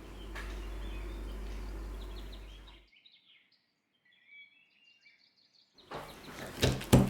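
Steady background noise with a low hum, then a quiet stretch with faint bird chirps. Near the end comes a run of sharp clattering knocks.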